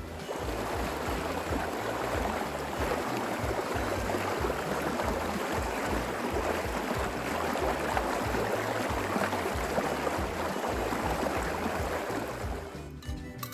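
A steady rushing noise like running water that starts suddenly and fades out near the end, over background music with a low bass line.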